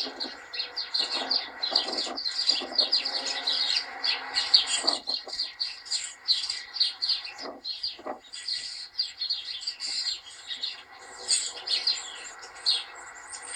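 Birdsong played from a television: many small birds chirping and twittering in quick, overlapping succession.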